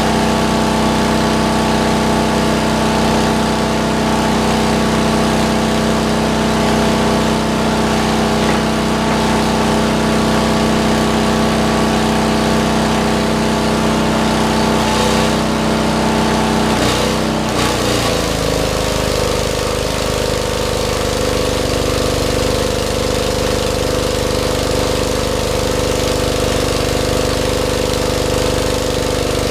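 Cast-iron Kohler engine of a Lincoln Weldanpower 150 welder-generator running steadily under load at full welding output, with the hiss and crackle of a stick-welding arc over it. The engine note shifts about seventeen seconds in.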